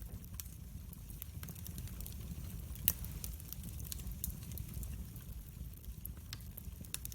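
Wood fire crackling in a fireplace: scattered sharp pops and crackles over a steady low rumble of the flames, with one louder pop about three seconds in.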